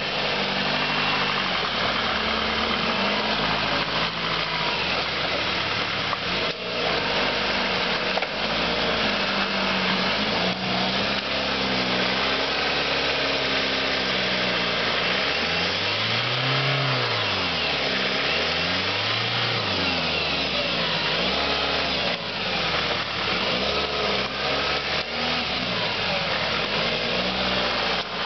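Car engine running under load, its revs rising and falling again and again as the car is worked slowly over a tree stump.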